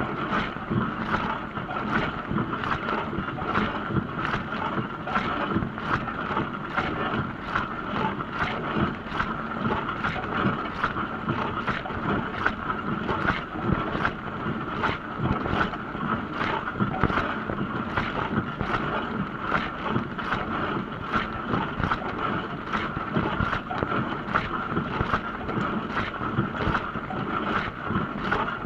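Dishwasher running a wash cycle: water spraying and sloshing inside the tub over a steady hum, with regular swishes repeating about every half second or so.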